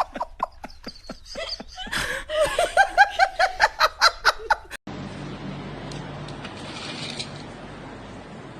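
High-pitched laughter in quick repeated bursts, building and loudest about two to four seconds in, cut off abruptly just before five seconds. After that comes a steady, even background hiss.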